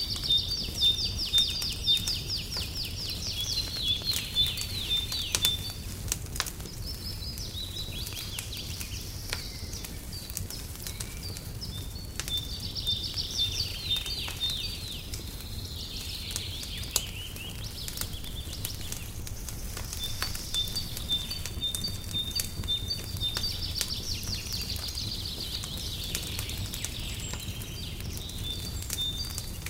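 A songbird singing repeated phrases of rapid trilled notes every few seconds, over the scattered sharp pops and crackles of a wood fire and a steady low rumble.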